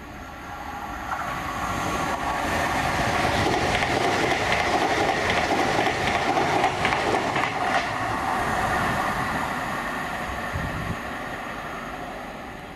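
Train passing by on the line, its running noise building to a peak mid-way and then fading as it moves off, with short clicks from the wheels through the loudest part.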